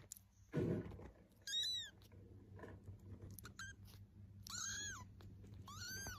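Cat mewing: three short, high-pitched mews, each rising then falling, about a second and a half in, at four and a half seconds and near the end. A louder rustling thump comes about half a second in.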